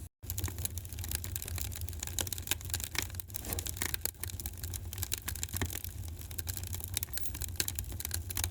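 Wood fire crackling in a fireplace: dense, irregular pops and snaps over a steady low rumble of burning. The sound cuts out for a split second just after the start.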